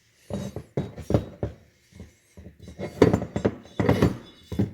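A string of irregular knocks and clinks of hard, metallic-sounding objects being handled and set down.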